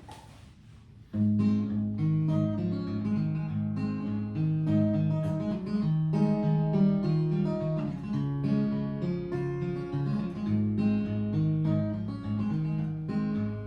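Acoustic guitar playing a song's instrumental intro, starting abruptly about a second in with a steady pattern of picked notes over a moving bass line.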